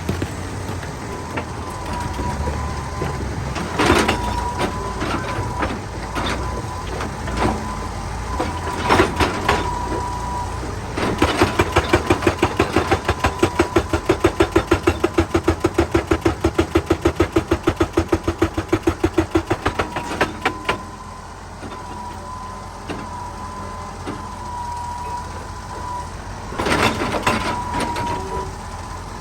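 Excavator engine running under load while its hydraulic breaker hammers rock. Through the middle there is a long run of fast, even blows, about four a second. A few single heavy knocks of steel on rock come before and after it.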